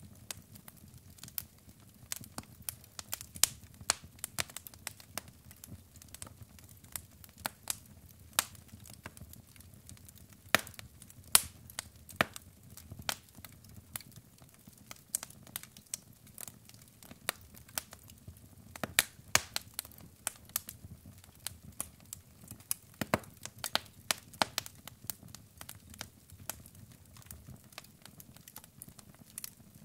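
Wood fire burning in a fireplace: logs crackling and popping in irregular sharp snaps over a soft, steady rumble of flame.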